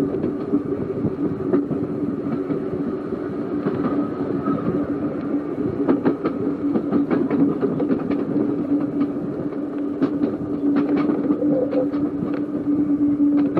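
Seaton Tramway narrow-gauge electric tram running along the track: a steady hum from the traction motors and gearing, with irregular sharp clicks from the wheels over rail joints.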